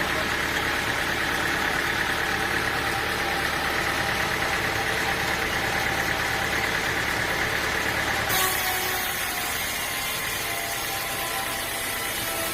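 A sawmill's engine running steadily, with a high whine over a low rumble. About eight seconds in, the sound changes abruptly: the low rumble drops away and the running turns lighter.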